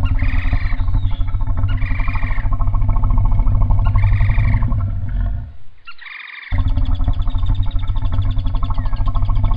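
Alligator bellowing: a loud, deep, rough rumbling growl in two long stretches, broken by a pause about five and a half seconds in.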